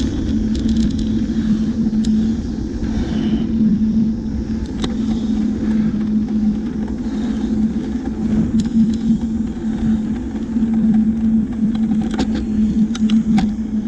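Steady road noise of a moving vehicle: a constant hum over low wind rumble, with a few light clicks near the end.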